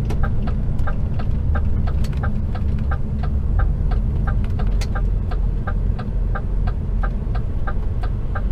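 Turn-signal indicator ticking in a lorry cab, about three clicks a second, over the steady low drone of the truck's diesel engine as it takes a roundabout exit.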